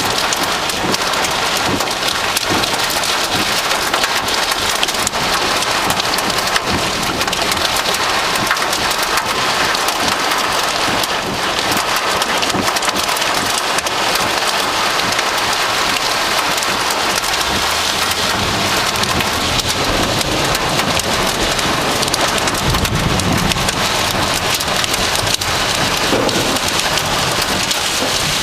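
Heavy thunderstorm rain pelting down hard in strong, howling wind, with a low rumble coming in about two-thirds of the way through.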